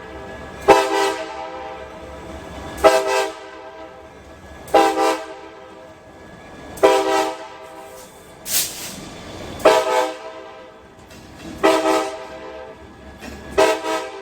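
Diesel freight locomotive's multi-chime air horn sounding seven short blasts, about one every two seconds, each trailing off in echo. A brief hiss comes a little past the middle.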